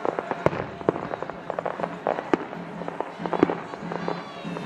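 Fireworks going off in quick, irregular succession: a dense run of sharp bangs and crackles, some louder than others.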